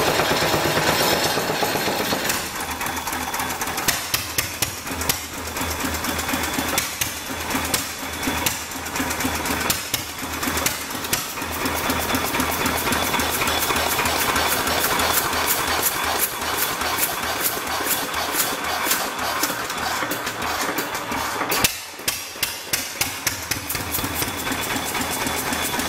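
Antique hit-and-miss stationary gas engine running with a fast, even beat and sharp mechanical clicks. In the last few seconds it thins to a run of separate sharp clicks, about three a second.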